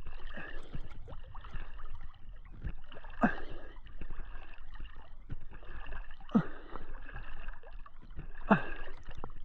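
Lake water sloshing and gurgling around a GoPro held at the surface by a swimmer, with a swish of water at each stroke, three of them two to three seconds apart.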